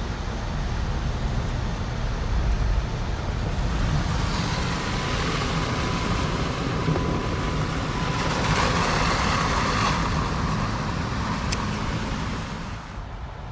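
Jeep driving on a trail: steady engine rumble and road noise, with a faint steady whine for a few seconds midway.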